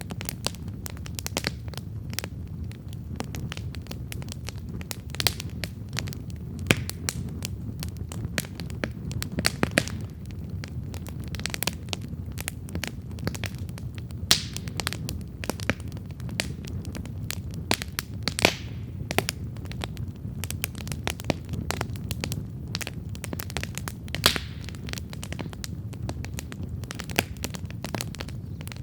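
Wood campfire burning with steady irregular crackles and sharp pops over a low, steady rumble of the flames.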